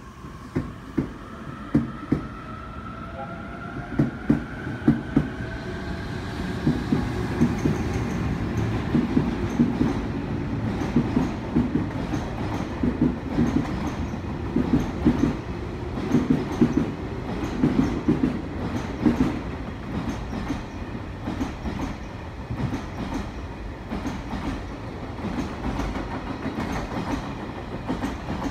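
Electric multiple-unit train running along the platform track, its wheels clacking in pairs over rail joints over a steady rumble. A motor whine rises in pitch during the first several seconds.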